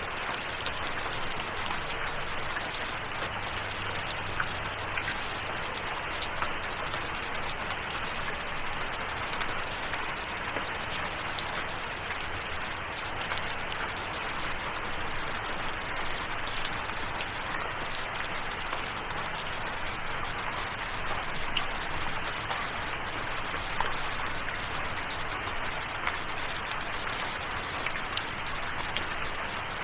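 Steady rain falling: an even hiss dotted with the sharp ticks of individual drops.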